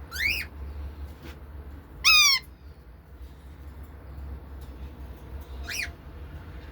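A pet bird calls three times, each a short squawk that rises and then falls in pitch; the second, about two seconds in, is the loudest. A steady low hum lies underneath.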